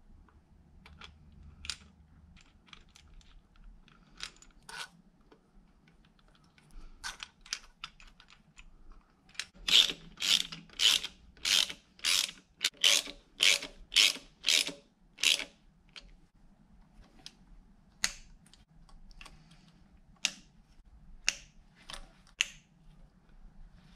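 Ratchet wrench being worked on an engine fastener: scattered single clicks, then a loud run of quick strokes, about two a second, for several seconds, and a few more strokes near the end.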